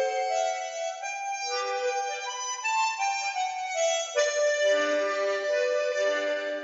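Harmonica playing a slow melody of held notes, with several notes sounding together in the second half.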